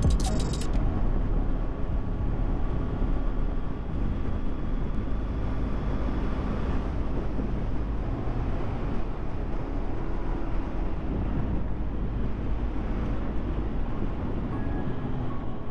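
Kawasaki Z900's inline-four engine running steadily under way, with wind noise on the action-camera microphone.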